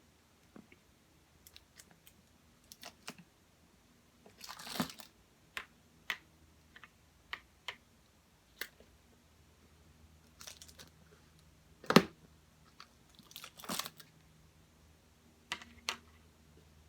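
Close-miked eating of cotton candy: scattered soft mouth clicks and smacks, with a few short rustles and one sharp knock about twelve seconds in.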